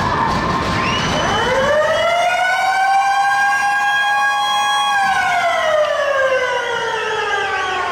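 Arena siren winding up, holding a steady high pitch for a few seconds, then winding slowly down, sounding at the end of a hockey game.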